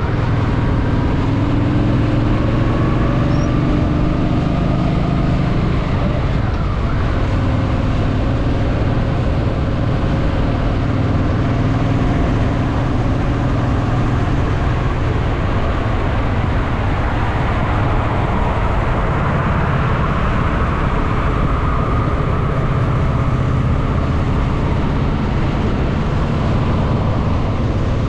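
Honda Shadow VT750's V-twin engine running at a steady cruising pace, with road noise.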